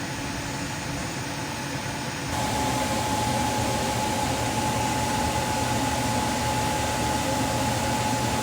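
Steady mechanical hum of a running machine; about two seconds in it grows slightly louder and a steady whine joins it.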